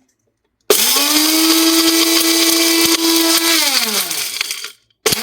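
Electric kitchen mixer grinder running in pulses: the motor spins up quickly, runs at a steady pitch for about three seconds, then is switched off and winds down with falling pitch. It is switched on again just before the end.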